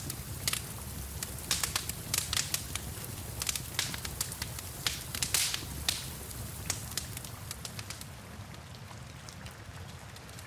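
Wood fire crackling and popping in irregular sharp snaps over a low rumble of flames, with a steady hiss that fits rain. The pops come thick for the first six seconds or so and thin out near the end.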